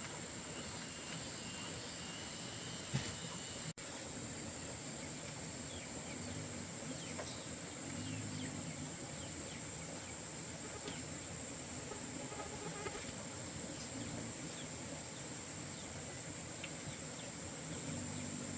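Insects droning steadily on one high, even note, with faint scattered bird chirps and a single sharp click about three seconds in.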